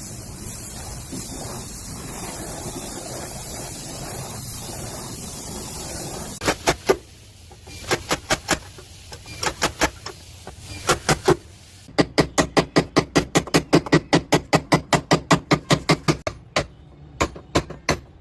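A steady hiss for about six seconds, then a hammer tapping out a dent in the sheet-metal running board of a Suzuki Swift Dzire. The taps come first in short scattered groups, then from about twelve seconds in as a quick, even run of roughly five taps a second.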